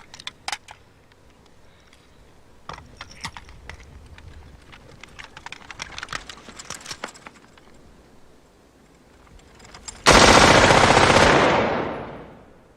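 War-film gunfire: scattered sharp shots through the first half, then about ten seconds in a sudden, much louder long burst of automatic fire that dies away over about a second.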